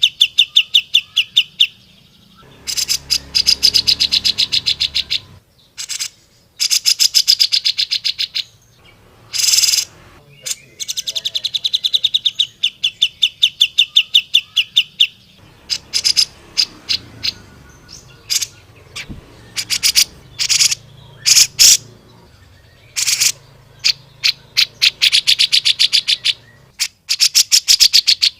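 Cucak jenggot (grey-cheeked bulbul) singing in loud, fast chattering bursts: rapid runs of sharp, high notes lasting a couple of seconds each, broken by short pauses and single calls.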